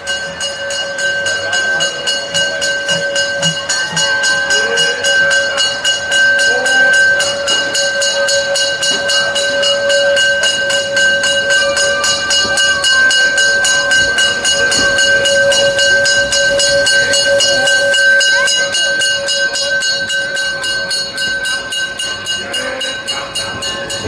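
Narrow-gauge train at the station: one long, steady, high ringing tone with overtones and a fast, regular pulsing in the highs, with crowd voices faintly under it in the first seconds.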